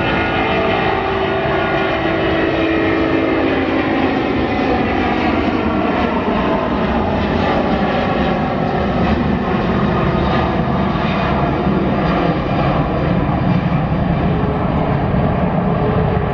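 Jet airliner engines running close by as the aircraft passes. The engine tones slide slowly down in pitch, and a deep rumble builds in the second half.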